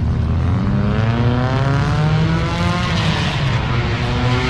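Car engine accelerating hard over a steady low drone: its pitch climbs for about two seconds, drops about three seconds in, then climbs again near the end.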